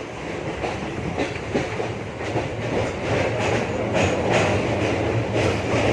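MEMU electric multiple-unit train running, its wheels clacking over rail joints in an uneven rhythm, with a steady low hum underneath.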